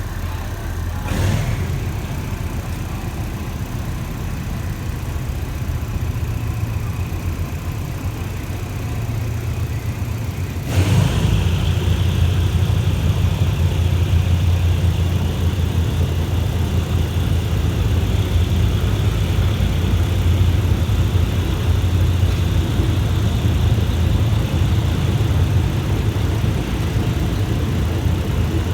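Passenger train running after leaving a station, heard from on board: a steady low rumble, with a short knock about a second in and a sharper knock near the middle, after which the rumble grows louder.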